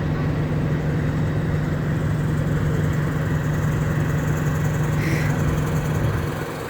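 Heavy truck's diesel engine idling with a steady low hum, dropping off somewhat about six seconds in. A brief higher-pitched sound cuts in about five seconds in.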